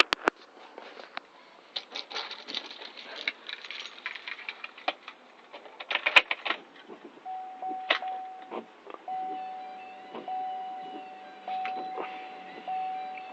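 Keys jangling and clicking and rattling handling noises. About halfway through, an electronic warning chime from the truck starts dinging steadily, about one ding a second.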